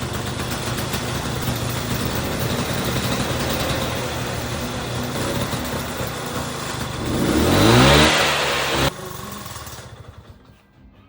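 Vespa scooter engine running, then revved up about seven seconds in, rising in pitch to a peak before cutting off abruptly; a much quieter sound trails away after.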